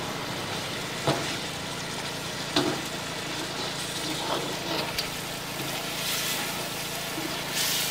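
Chicken masala frying and sizzling in a hot iron kadai while a metal ladle stirs and scrapes it, with a few sharp clinks of the ladle against the pan.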